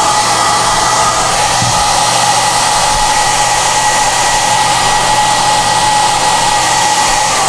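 SOUNATE high-airflow hair dryer running steadily: an even rush of air with a thin, steady high whine on top.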